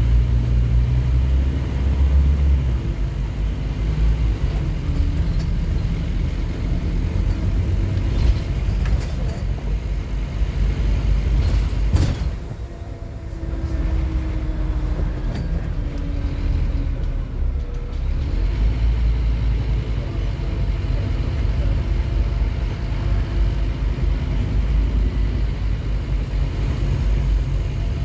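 Scania N230UD OmniCity double-decker bus's five-cylinder diesel engine running under way with a steady low rumble. About twelve seconds in there is a sharp knock and the engine sound drops away for a second or two before it pulls again.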